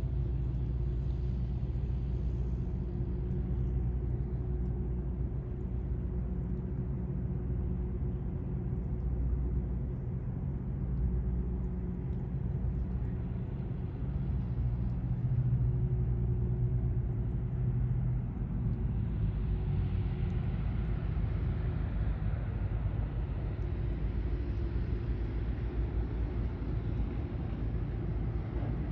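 Piper PA-31-350 Chieftain's twin six-cylinder piston engines and propellers droning steadily during landing. The sound grows hissier in the upper range about two-thirds of the way through.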